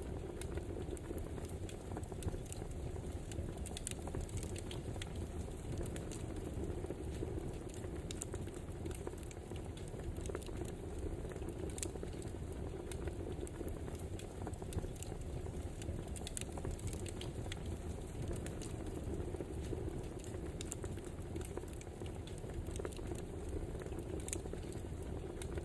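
Burning firewood crackling: a steady hiss and rumble with frequent small, irregular pops and snaps.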